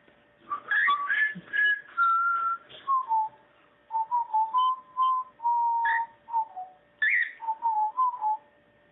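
A whistled tune: a run of clear single notes, some sliding up or down, in short phrases with brief gaps.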